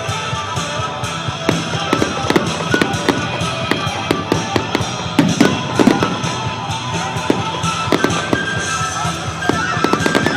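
Fireworks going off in a rapid, irregular run of bangs and crackles, with music playing underneath.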